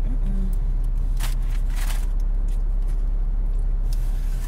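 Steady low hum of a car idling, heard inside the cabin, with two brief rustles about one and two seconds in.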